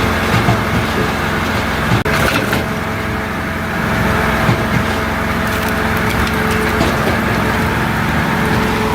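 Multitek 1620SS firewood processor running steadily on its 44 hp diesel engine while it splits logs, with the cracking and splintering of wood breaking apart.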